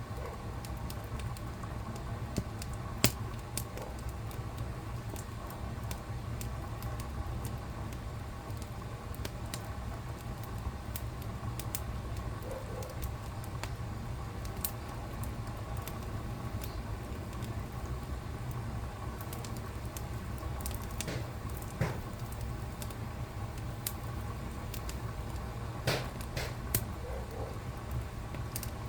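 Wood fire crackling in a fireplace: a steady low rumble with scattered sharp pops and snaps, one of the loudest about three seconds in and a few more near the end.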